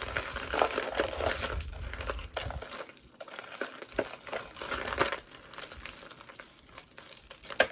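Beaded necklaces and metal chain being handled and moved about, beads and links clicking and rattling against each other with a rustling sound. There are low bumps of handling in the first couple of seconds.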